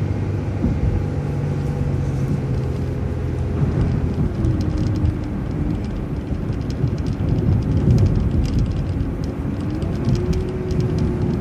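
City transit bus driving, heard from inside: steady engine and road rumble with a drivetrain whine that drops about four seconds in and climbs again near the end, and light rattles.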